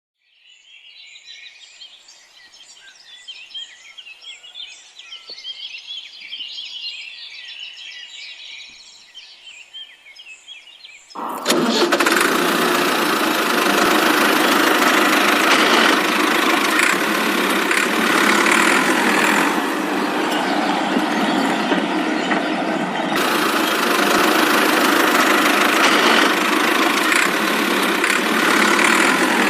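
Birds chirping for the first ten seconds or so, then an abrupt switch to a loud, steady engine-like running noise.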